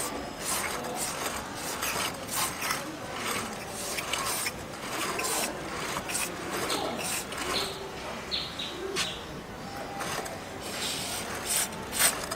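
Aerosol chain lube spraying onto a motorcycle drive chain in many short, irregular bursts.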